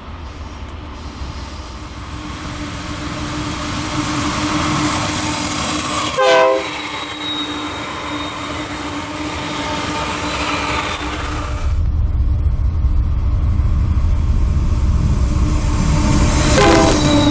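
A train passing on the mountain grade: diesel locomotive rumble growing louder about two-thirds of the way in, with steel wheels squealing high and steadily on the curving track.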